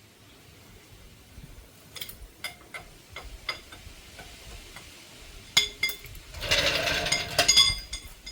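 Metal hand tools clicking and clanking during suspension work, a few scattered sharp clicks followed near the end by a louder couple of seconds of metallic rattling and clinking.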